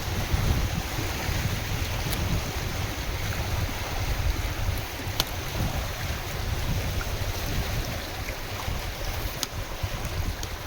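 Lake waves lapping and splashing in strong wind, with wind buffeting the microphone in a heavy, uneven rumble. A few sharp clicks stand out from the wash of the water.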